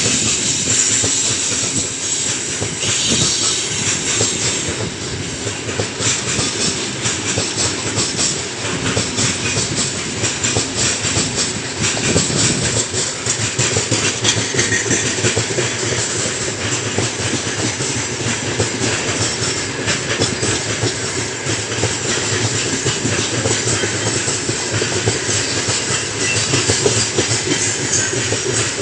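Freight train of open gondola wagons rolling past close by: a steady rumble and rattle of steel wheels on the rails, with a continuous clatter of the wagons' bogies over rail joints.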